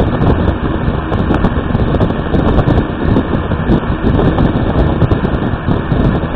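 Electric fan blowing hard straight onto the microphone: loud, uneven wind buffeting.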